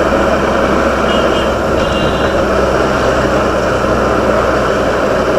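Motorcycle running at road speed, its engine hum under steady wind and road noise. Two faint short high tones sound about one and two seconds in.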